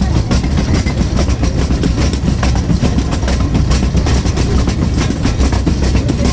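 Small sightseeing train running along its track: a steady low rumble with many small clicks and rattles from the wheels and cars.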